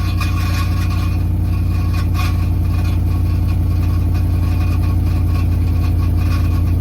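A vehicle's engine running with a loud, steady, terrible noise, which the owner suspects is a broken flywheel or a starter stuck engaged.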